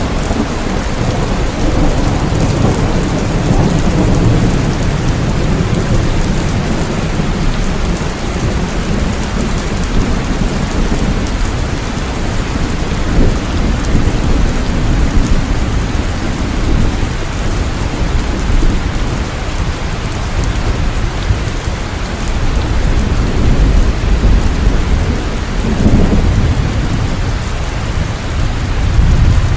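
Steady heavy rain with low rumbles of thunder, swelling near the start and again near the end.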